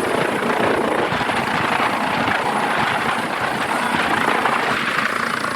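A landed helicopter running on the ground: steady rotor and engine noise.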